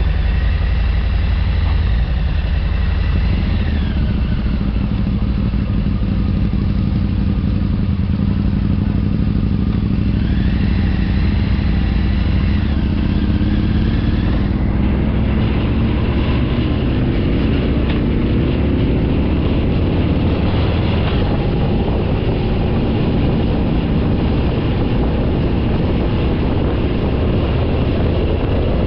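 Motorcycle engine running on the move, a steady low rumble whose pitch climbs over several seconds about halfway through as it accelerates.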